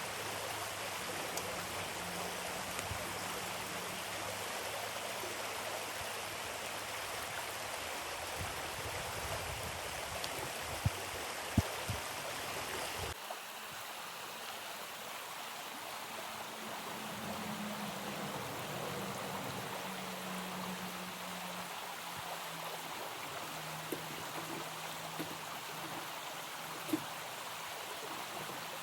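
Steady rush of running water, with a few sharp clicks. The noise changes abruptly a little before halfway.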